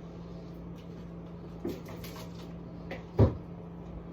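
Items being handled and set down while a fridge and freezer are sorted: a soft knock and then a louder thump about three seconds in, over a low steady hum.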